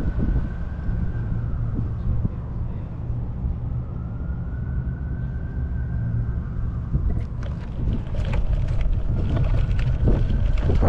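Wind rushing over the microphone of a rider on a moving bicycle, a steady low rumble. A faint tone rises and falls a few times, and scattered clicks and ticks come in from about seven seconds in.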